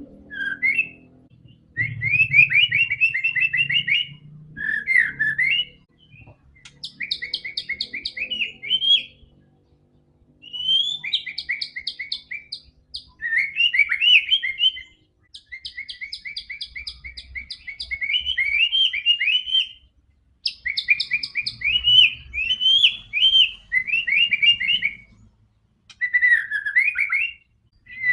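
White-rumped shama (murai batu) singing vigorously: phrase after phrase of fast repeated and sweeping notes, each phrase lasting one to three seconds, with short pauses between them.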